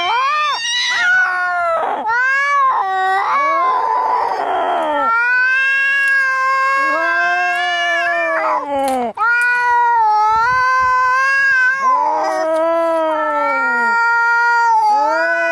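Angry domestic cats caterwauling: long, drawn-out yowls that rise and fall in pitch, one after another, with a harsh hissing burst about four seconds in.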